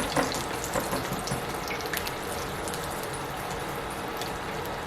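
Egg rolls deep-frying in hot peanut oil: a steady sizzle with scattered crackling pops, busier in the first second or so.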